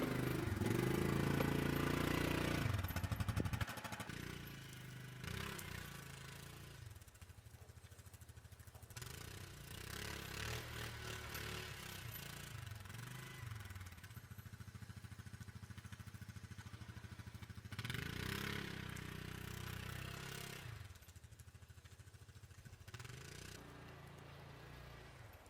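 ATV (four-wheeler) engine running, its pitch rising and falling as the throttle changes while pushing snow. It is loudest in the first few seconds and dies away near the end.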